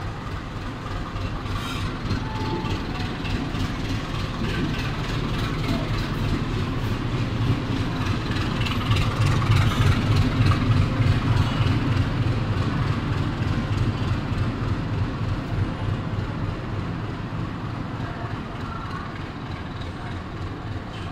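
Passenger train coaches rolling slowly over the tracks with a steady clickety-clack of wheels on rail joints, pushed by a diesel locomotive. Its low engine rumble grows loudest about halfway through as it passes underneath, then fades.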